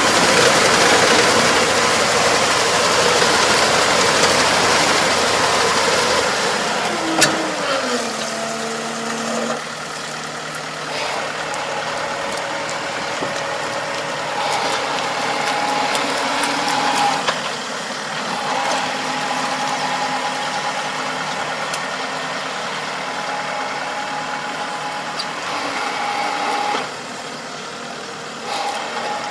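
Farm machine engine running hard, then easing off about seven seconds in: its note falls and settles into a steadier, lower running sound with a few fixed whining tones.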